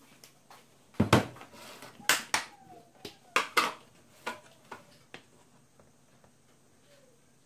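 Kitchenware being handled: a run of knocks and clatters of dishes and utensils set down and moved, the loudest a heavy thump about a second in, then lighter knocks that thin out and stop.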